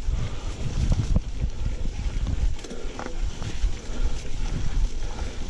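Mountain bike ridden over a rough dirt trail, heard from a bike- or body-mounted action camera: wind rumbling on the microphone with the rattle and knocks of the bike over the ground.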